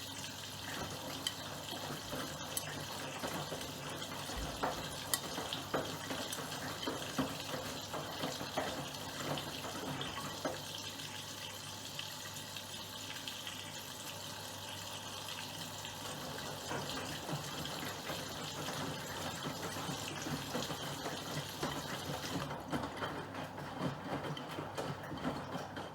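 Miele Professional PW6065 Plus washing machine taking in water: a steady rush of water into the drum with small splashes and knocks, cutting off near the end.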